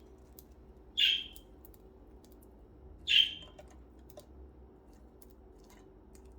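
Budgie giving two short, sharp calls about two seconds apart, with faint light clicks in between.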